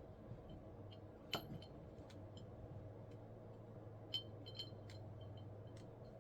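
A scatter of small, sharp clicks and clinks of hard objects touching, the loudest about a second in and another about four seconds in, over a steady low hum.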